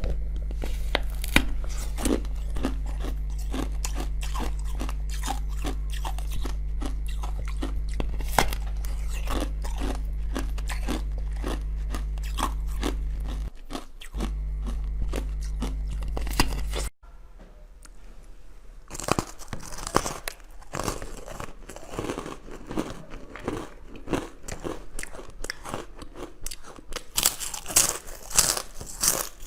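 Close-miked biting and chewing of crunchy frozen treats: many sharp crunches and crackles. For the first part a steady low hum runs underneath, then it cuts off abruptly about halfway through, leaving only the crunching.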